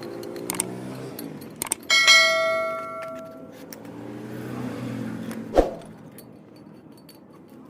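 A metal part struck once about two seconds in, ringing out with a clear bell-like tone that fades over a second or so, followed by a single sharp knock later on, over the low running of a vehicle engine nearby.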